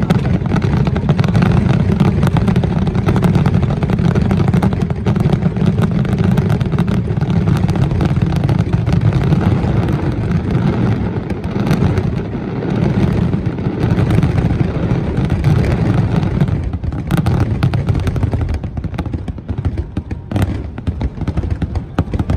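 Aerial fireworks going off in a dense, rapid barrage of bangs that thins to separate bangs in the last few seconds.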